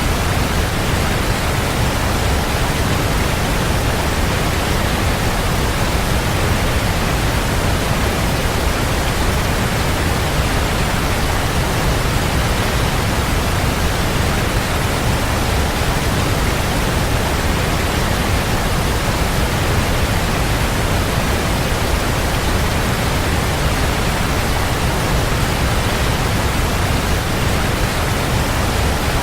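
A waterfall's water crashing down: a steady, full rush, heaviest in the low end, unchanging throughout.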